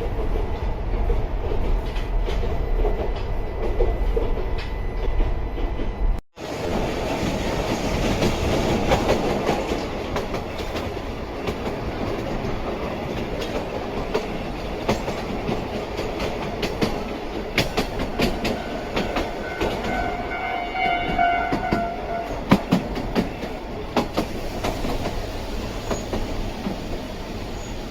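Narrow-gauge electric train of the Sangi Railway Hokusei Line running, its wheels clattering over rail joints with a continuous rumble. About twenty seconds in, a brief high whine made of several steady tones rises over the rumble. The sound cuts out for a moment about six seconds in.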